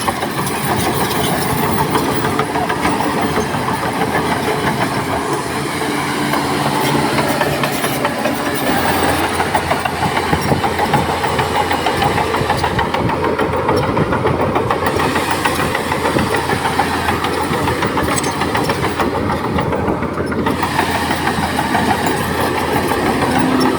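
Heavy diesel earthmoving machinery running steadily at a constant level.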